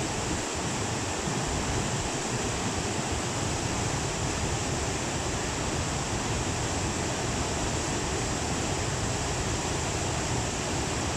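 Steady, unbroken rushing of the Tama River in flood after a typhoon, with an uneven low rumble underneath.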